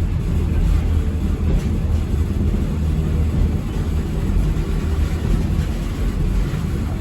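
Steady low rumble of a moving passenger train heard from inside the carriage, with wheel and running noise at an even level throughout.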